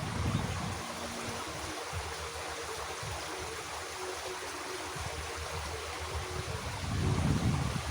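Water running steadily in a small irrigation ditch, with a low rumble swelling near the end.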